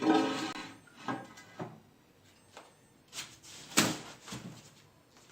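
A few separate knocks and scrapes from handling stiff pieces of cardboard while fitting a cardboard fireplace surround back together, the loudest a sharp knock a little before four seconds in.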